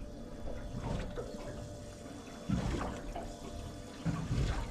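Water sloshing and lapping against the hull of a small boat, in irregular surges, two of them louder than the rest.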